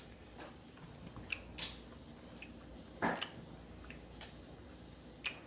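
Quiet, wet chewing and mouth clicks of someone eating seafood boil: a few scattered smacks, with a louder one about three seconds in.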